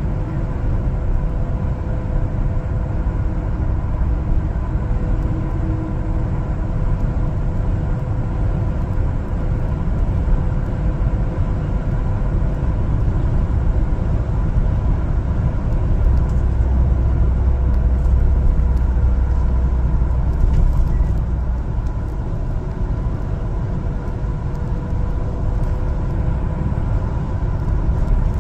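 1-ton LPG cargo truck driving, with a steady low engine and road rumble and a faint steady hum above it. The rumble grows louder for a few seconds past the middle.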